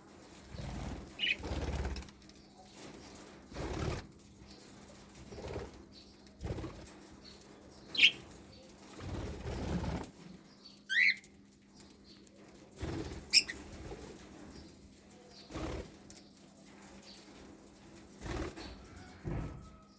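Budgerigars fluttering their wings in short bursts again and again, with a few brief high chirps in between, one of them sliding in pitch.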